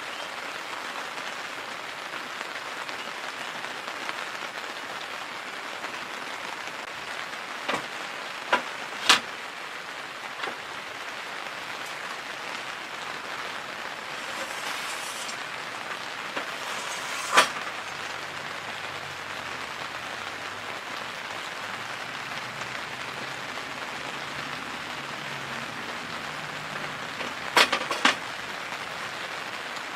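Steady rain falling, an even hiss throughout, with a few sharp isolated taps or knocks standing out above it, the loudest about a third of the way in and a pair close together near the end.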